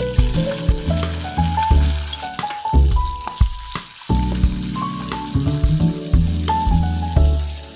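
Ground meat, onions and freshly added tomato slices sizzling in hot oil while a metal ladle stirs them, with background music playing a melody over a bass line.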